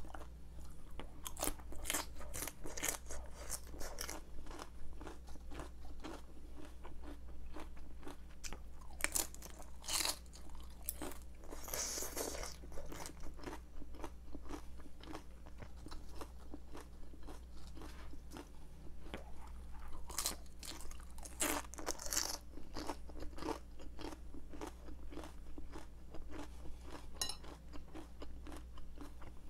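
A person biting and chewing crisp raw salad vegetables (cabbage and bell pepper), a dense irregular run of sharp crunches, over a faint steady low hum.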